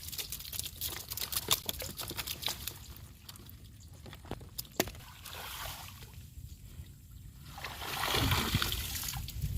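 Water splashing and trickling as bamboo shrimp traps are lifted and handled in shallow water, with scattered sharp clicks and knocks. A louder spell of splashing comes near the end.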